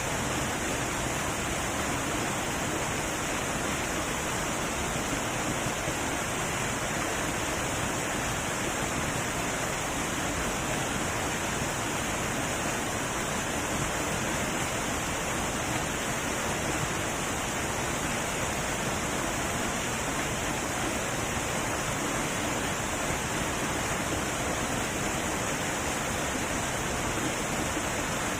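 A heavy waterfall: water falling and rushing in a steady, unbroken roar.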